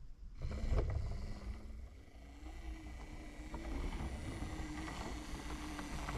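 Model railway locomotive starting to move along the track: a low running rumble with a steady, slightly wavering motor tone and a few light clicks.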